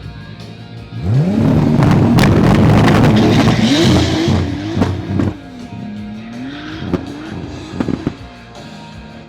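Car engine revving hard: the pitch climbs steeply about a second in, then rises and falls again and again, with a few sharp pops in between. Music plays with it.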